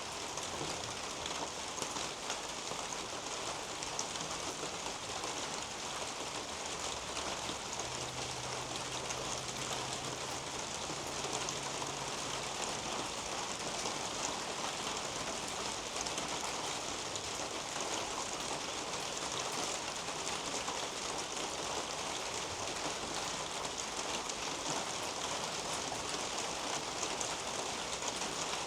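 Steady rain falling on garden leaves and a roof overhead, with individual drops ticking close by.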